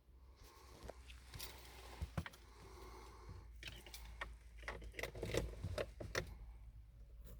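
Keys jangling and clicking: a run of small rattles and sharp clicks, busiest about two thirds of the way in, over a faint low steady hum.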